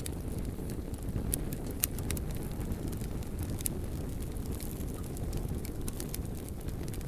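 Wood fire burning: a steady low rumble of flames with scattered sharp crackles and pops, a few louder snaps about a second and a half in and again past three and a half seconds.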